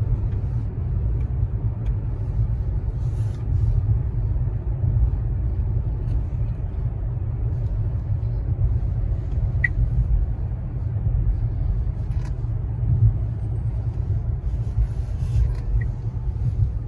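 Steady low rumble of a car driving, heard from inside the cabin, with a few faint scattered clicks.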